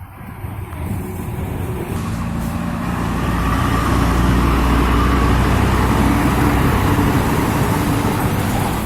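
A heavy road vehicle's engine passing close by. It builds up about two seconds in, is loudest through the middle and eases off near the end.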